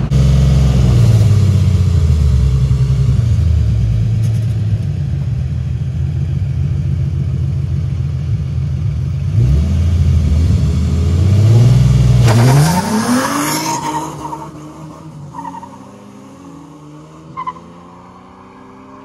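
Car engine heard from inside the cabin, running hard at speed, its pitch climbing and dropping with gear changes. About twelve seconds in, an engine revs up sharply outside, then drops away and fades, leaving faint engine revving in the background.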